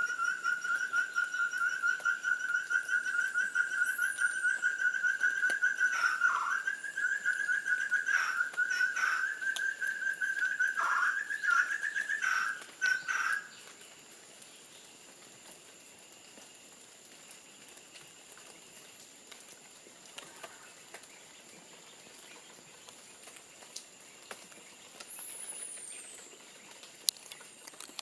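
Male ferruginous partridges calling at each other in a territorial dispute: a long, rapidly pulsing whistle held at one pitch, broken after several seconds by short downward dips and stopping about halfway through. A faint steady high tone runs behind it, and a faint descending high note comes twice.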